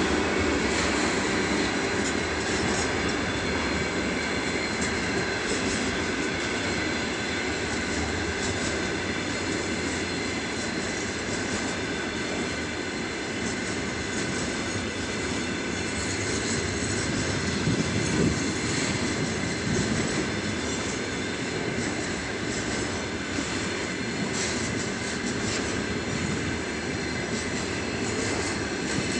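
Container flat wagons of a freight train rolling past: a steady rolling noise of steel wheels on the rails, with a brief louder moment about eighteen seconds in.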